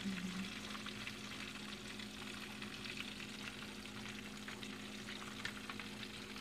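Oil sizzling steadily as breaded chicken cordon bleu pan-fries, with small pops and the soft sound of a silicone whisk stirring sauce in a saucepan.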